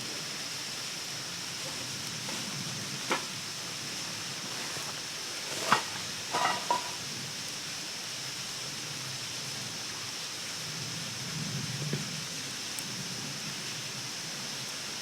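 Steady rushing outdoor noise with a constant high hiss, broken by a few sharp clicks: one about three seconds in, a louder one near the middle, and a short cluster just after it.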